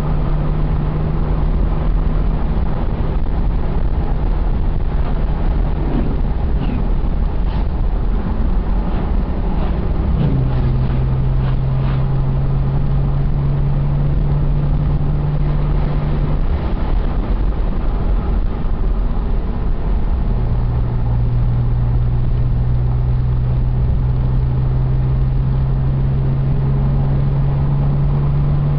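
Nissan 300ZX's V6 engine and road noise at a slow, steady speed: a low, even drone whose pitch steps down slightly about ten seconds in, fades a few seconds later, and comes back near the end.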